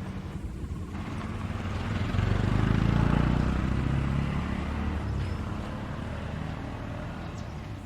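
A motor vehicle passes close by: its engine hum swells about two seconds in and fades away over the next few seconds. There are a few faint bird chirps.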